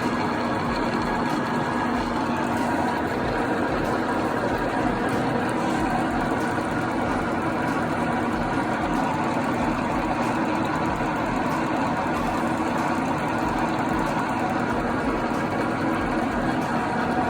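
Elliott U2 universal milling machine running steadily, a constant mechanical hum with no change in speed.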